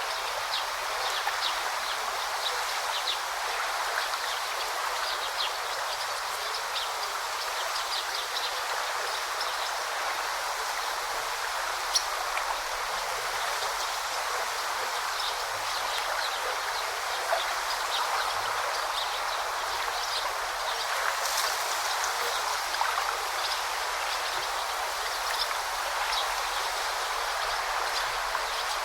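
Forest river flowing: a steady babble of rushing water.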